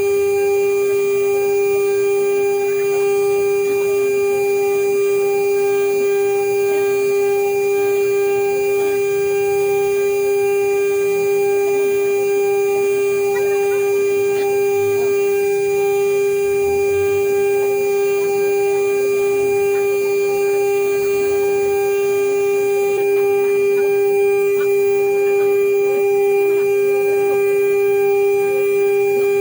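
CNC router spindle running at a constant speed while machining a marine-aluminum seal plate: a steady whine that holds one pitch throughout.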